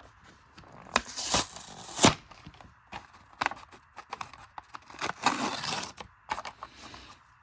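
A die-cast toy car's cardboard-and-plastic blister pack being torn open by hand: tearing and crinkling in irregular bursts with sharp cracks, the loudest crack about two seconds in.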